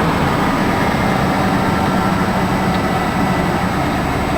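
1992 Ford Crown Victoria's 4.6-litre V8 idling steadily, just after a cold start following about a week of sitting.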